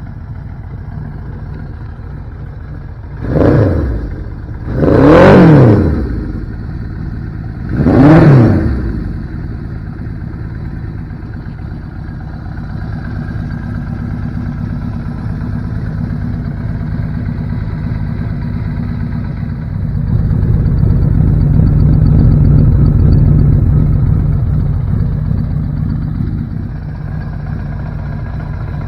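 1983 Suzuki GS1100's air-cooled inline-four (a replacement engine) idling, revved in three quick blips about three, five and eight seconds in. Later it runs a little faster and louder for about six seconds before settling back to idle.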